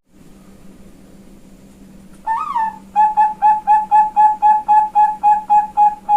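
Female Perkutut Bangkok zebra dove cooing: a single rise-and-fall opening note, then a rapid even run of about a dozen short coos, about four a second.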